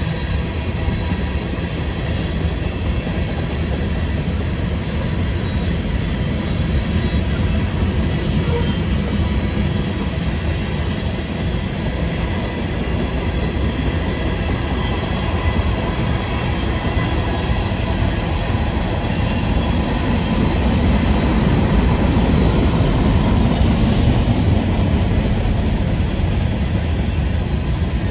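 Freight train rolling past, its cars' steel wheels rumbling steadily on the rails with faint high ringing tones above, growing somewhat louder about twenty seconds in.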